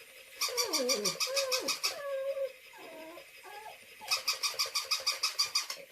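Electronic toy dog sounding off twice: a rapid buzzy clicking with a warbling, wavering tone, each burst lasting about a second and a half.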